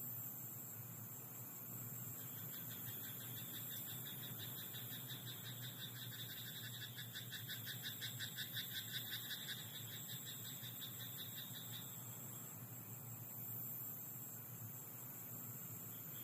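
A frog giving a long, rapid pulsed croaking call that starts about two seconds in, grows louder toward the middle and stops about twelve seconds in, over a steady faint high hiss.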